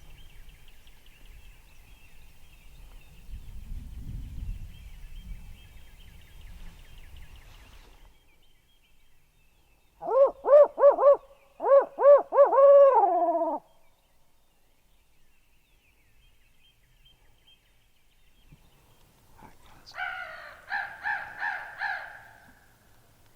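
A man imitating a barred owl with his own voice as a turkey-hunting locator call: two loud rhythmic phrases of hoots in the 'who cooks for you, who cooks for you all' pattern, the last note sliding down. A fainter, rapid pulsed call follows near the end.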